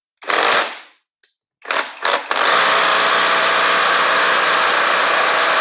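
Power tool spinning on a seized engine pulley bolt to work it loose. It gives a short burst, two brief blips, then runs steadily from about two seconds in.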